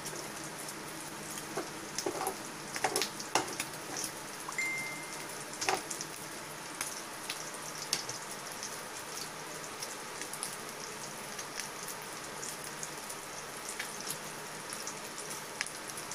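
Garlic, ginger and pork pieces frying in oil in a stainless steel pan: a steady sizzle with scattered crackles and pops, busiest in the first six seconds, as the garlic is left to brown.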